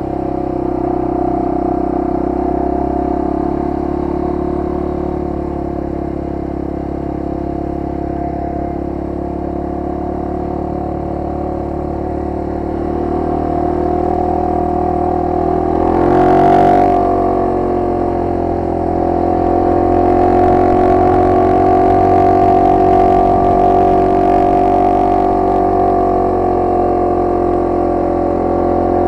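Honda XR250R's single-cylinder four-stroke engine running at steady road speed, heard from on the bike. Just past halfway the revs briefly dip and pick up again, with a short rushing burst.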